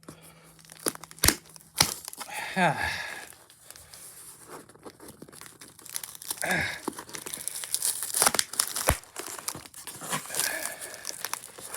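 Packaging being torn and crinkled open by hand: irregular rustling and tearing with several sharp snaps and clicks, as the package is hard to get open.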